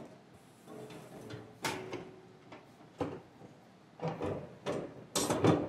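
Metal clanks and scrapes as an ATV snow plow's lift arm is worked through its mounting bracket under the four-wheeler. There are several separate knocks, spaced about a second apart, with the loudest cluster near the end.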